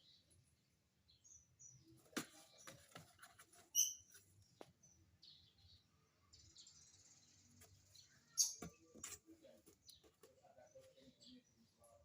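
Lovebird giving short, high chirps now and then, mixed with a few sharp clicks and taps.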